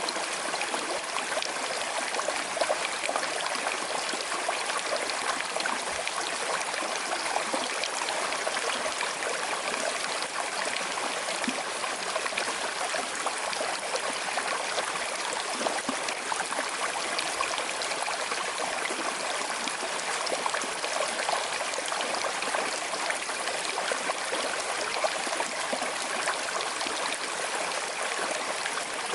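Small river flowing gently over stones: a steady rush of water with fine trickling and gurgling.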